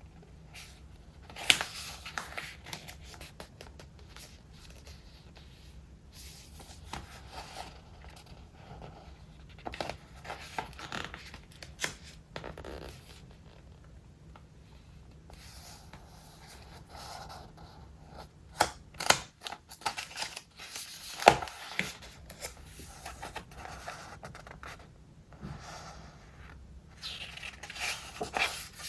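Pages of a thick traveler's notebook, layered with collaged paper and stickers, being turned and handled: irregular paper swishes and rustles, with a few sharp snaps of stiff pages, the loudest about a second and a half in and again around twenty seconds in.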